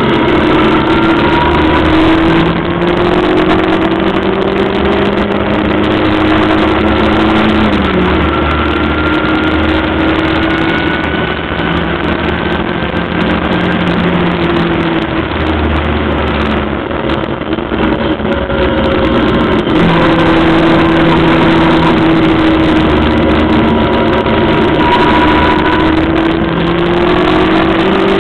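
The ex-750MC Locost kit car's 1300cc engine at speed, heard onboard: the engine note climbs steadily with the revs and drops sharply about eight seconds in and again near twenty seconds, as at a gear change or lift, over a steady rush of noise.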